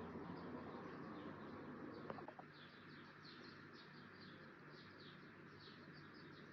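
Faint birdsong: small birds chirping in quick, repeated short notes, thickening through the second half. A single soft click sounds about two seconds in.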